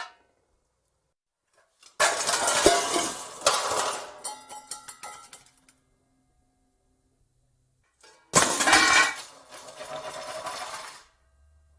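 Pots and pans crashing and clattering together in two bursts, the first about two seconds in with several knocks and a brief metallic ring afterward, the second about eight seconds in, with silence between.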